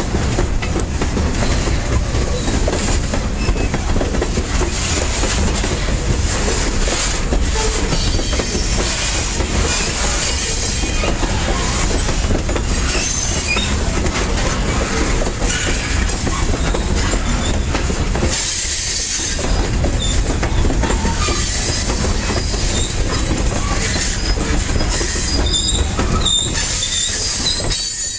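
Loaded freight cars of a long, heavy corn train rolling past steadily: wheels clacking over the rail joints, with flanges squealing now and then in high tones, more often near the end.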